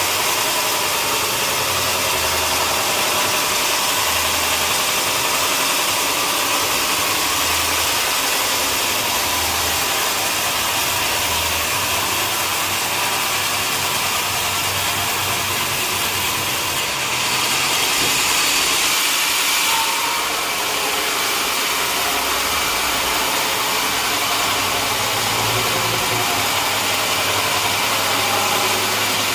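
Sawmill machinery running steadily: a machine hum under a continuous hiss, growing briefly brighter and hissier about seventeen seconds in.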